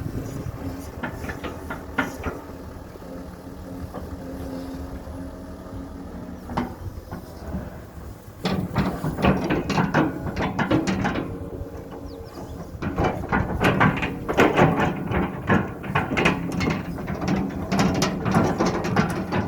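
Excavator's diesel engine running, then working harder and louder about eight seconds in, with a busy stretch of knocks and clatter.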